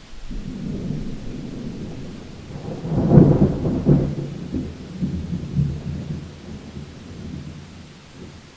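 Thunder rolling during a rainstorm. The deep rumble builds to its loudest about three seconds in, then rolls away over the next few seconds, over a steady hiss of rain.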